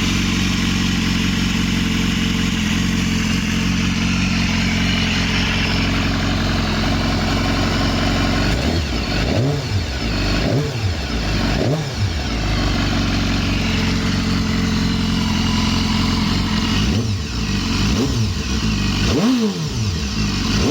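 BMW S1000RR's inline-four engine idling steadily, then revved with about six quick throttle blips in two groups of three, each rising sharply and falling back to idle.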